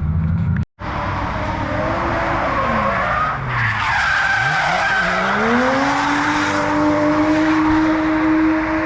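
Drift cars sliding past at high revs, with tyre squeal. One engine's pitch falls away as it goes by, then another climbs and holds steady at high rpm near the end.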